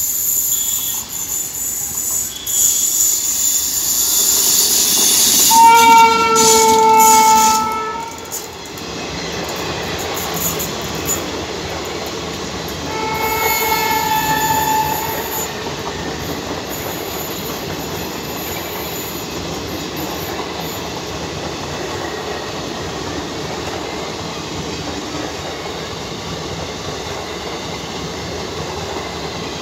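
Indian Railways WAP-7 electric locomotive approaching and passing on a curve, sounding its horn in a long blast about six seconds in and a shorter one about thirteen seconds in. Then a steady rolling noise as the train's passenger coaches go by.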